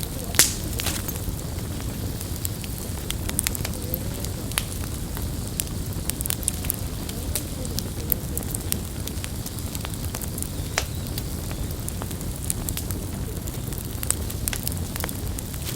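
Campfire burning: a steady low rumble of flames with scattered sharp crackles and pops throughout, the loudest pop about half a second in.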